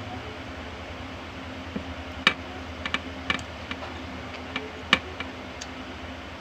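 A person eating: a string of irregular sharp clicks and smacks, the loudest about two and five seconds in, over a steady low hum.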